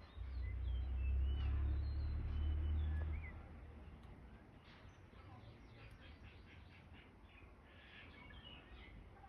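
Small birds chirping and calling in short gliding notes, with quick runs of rapid chirps about halfway through and again near the end. A low rumble, the loudest sound, covers the first three seconds.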